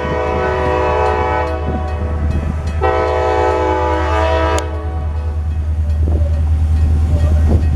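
Diesel freight locomotive horn sounding a chord blast that ends about a second and a half in, then a second blast of nearly two seconds, over the steady low rumble of the locomotive and train, which grows a little louder toward the end.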